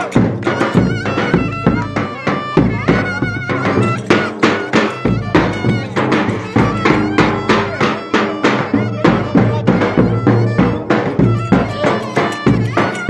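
Turkish village-wedding folk dance music: a wind instrument plays a wavering, ornamented melody over a steady drum beat.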